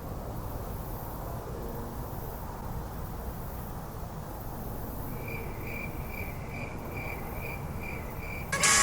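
Steady low outdoor background rumble. In the last few seconds a faint chirp repeats evenly, about two or three times a second, and then music starts loudly near the end.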